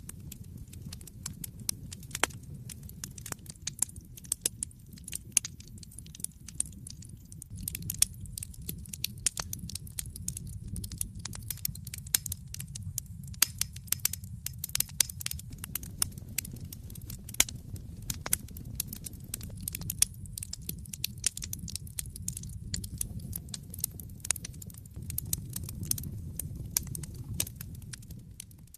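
Wood fire burning in a fireplace: a steady low rumble of the flames with dense, irregular sharp crackles and pops of the burning logs.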